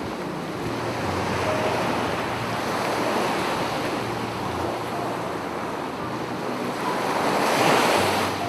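Sea surf rushing onto a beach in a steady wash, which swells to its loudest about three-quarters of the way through as a wave breaks, then falls back.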